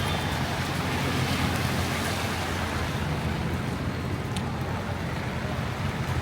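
Heavy rain falling on a city street, a steady hiss mixed with the low rumble of passing road traffic. One faint tick about four seconds in.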